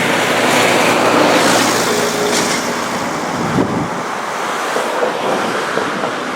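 Wind buffeting the microphone as a steady rushing noise, with a motor vehicle's engine hum fading out in the first couple of seconds; the low rumble eases off about four seconds in.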